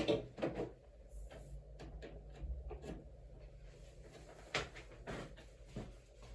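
An antique brass hugger ceiling fan is switched on, with a few sharp clicks and knocks. A faint steady low hum from its small motor starts about a second in.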